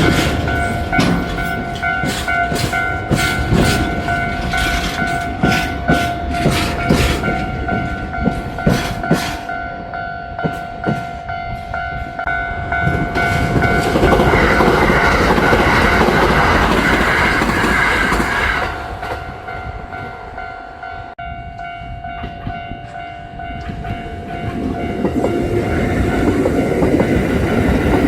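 Kintetsu electric train passing, its wheels clicking over the rail joints in a quick, even clickety-clack for the first several seconds. Then a louder rushing stretch midway that dies down and builds again near the end, with a steady tone held under it.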